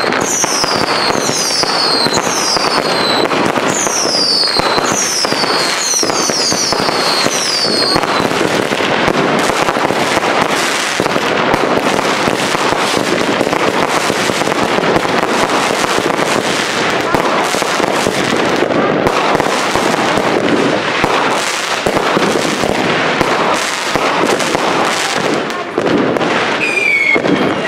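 Consumer fireworks going off at close range. For the first eight seconds a series of high, falling whistles repeats about every 0.7 s over crackling. After that comes a dense, fast run of cracks and pops, with a short pitched whine near the end.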